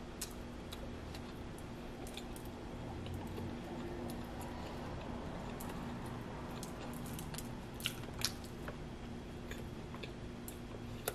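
Quiet chewing of a soft buttered biscuit: scattered small mouth clicks and smacks, two a little louder about eight seconds in, over a faint steady hum.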